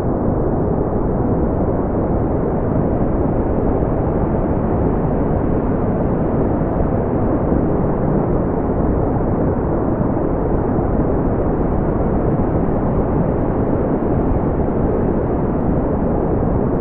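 Steady, deep brown noise: an even rumbling hiss with most of its energy in the low end, smoothed so that almost nothing is heard above about 3 kHz.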